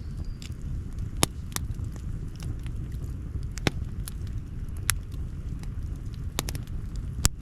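Campfire crackling: sharp pops of burning wood at irregular intervals, a few seconds apart, over a steady low rumble. The loudest pop comes near the end.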